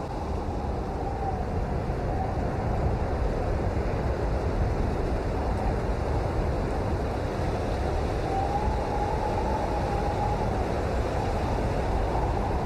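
Steady rain, a dense unbroken hiss with a deep low rumble beneath it. A faint wavering whistle rises and fades near the start and again past the middle.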